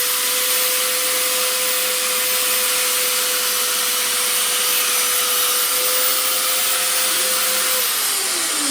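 Small electric metal-cutting band saw running steadily and cutting through a wooden board, with a steady motor whine; near the end the whine falls in pitch as the saw winds down.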